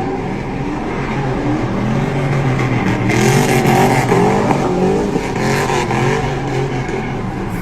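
Car engines running and revving, their pitch rising and falling, loudest about three to four seconds in.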